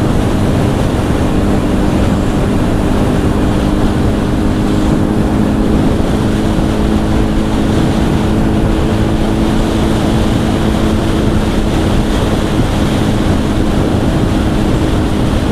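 Steady wind rush buffeting a helmet-mounted microphone, over the even drone of a Honda CBR1000's inline-four engine through its Two Brothers exhaust, held at steady revs.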